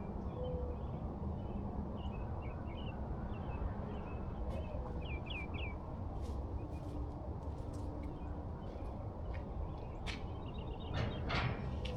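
Birds chirping in short bursts over a steady low rumble, with a few sharp clicks near the end.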